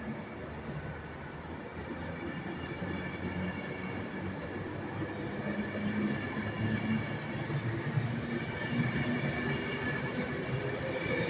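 Class 390 Pendolino electric train running through the station, a steady rumble with a faint high whine, growing louder over the second half.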